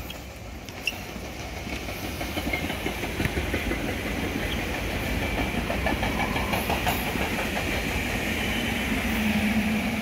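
SEPTA Regional Rail electric train passing close by, growing louder as it comes up. It has a steady high whine, and its wheels click over the rail joints around the middle.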